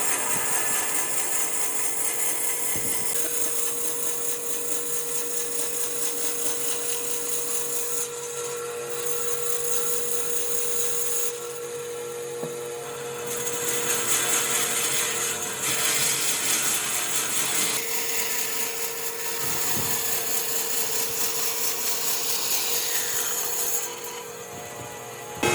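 A power tool working wood, running steadily with a continuous hiss over a steady hum. The load on it changes several times, and it drops lower near the end.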